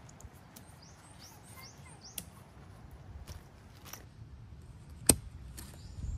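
A songbird singing a quick run of short, repeated high chirps, with scattered small clicks and rustles from the tent being handled. There is one sharp, loud click about five seconds in, and a low rustle near the end.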